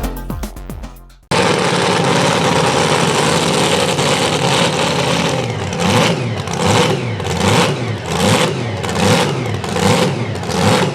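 A super modified two-wheel-drive pulling truck's engine running loud, cutting in suddenly about a second in. In the second half it revs up and down over and over, a rise and fall in pitch roughly every 0.7 seconds.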